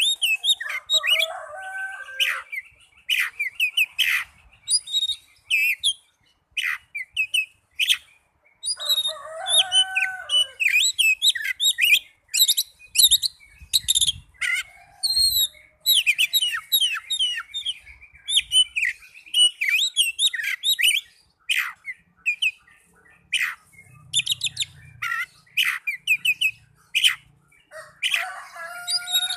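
Oriental magpie-robin song: a fast, varied run of loud whistles, trills and chirps, with few pauses. A lower, harsher falling call breaks in near the start, about nine seconds in, and again near the end.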